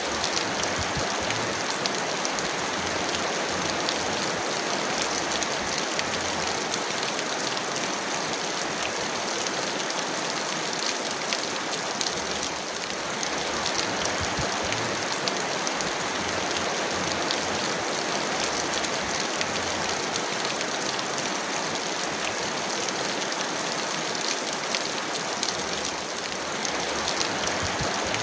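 Heavy rain falling steadily: a dense, even hiss with fine drop ticks running through it.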